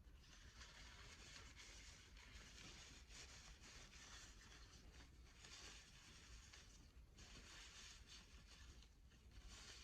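Gloved hands rubbing and handling prayer beads: soft, faint scratchy rustling that comes in stretches with brief pauses.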